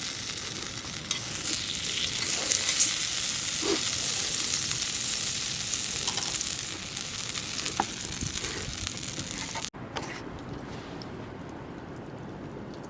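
Food sizzling and frying in a hot pan, a steady crackling hiss with small pops, loudest in the first half. About three quarters through it cuts off abruptly and comes back as a fainter hiss.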